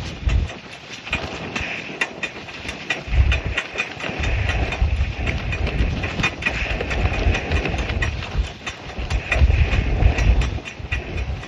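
Nylon tracksuit fabric flapping hard in a strong, gusty wind, a fast irregular run of sharp snaps and rustling. Wind buffets the microphone in low rumbling gusts that swell several times, loudest around the middle and near the end.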